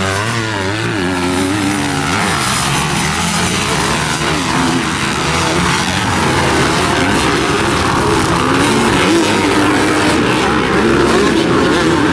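Several motocross dirt bike engines running at once, each engine's pitch rising and falling as the throttle is opened and closed.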